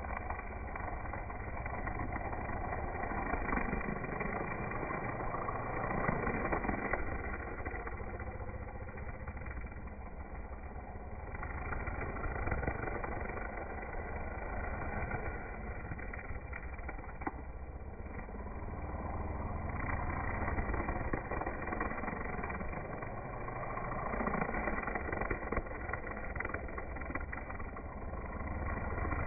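A string trimmer's small engine running, heard as a low, steady mechanical drone with its loudness swelling and fading every few seconds.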